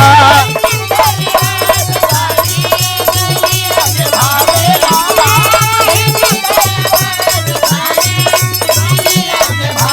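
Instrumental interlude of a Bhojpuri birha folk song. A steady low drum beat is joined by rattling, jingling percussion and a melodic instrument playing held notes; the singing stops just as it begins.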